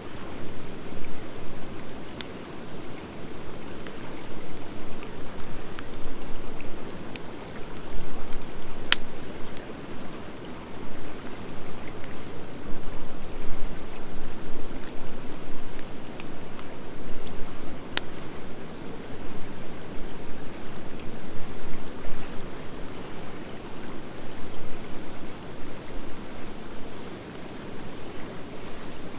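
Campfire of driftwood and hardwood logs burning with a steady, wavering rush, broken by a few sharp pops from the wood.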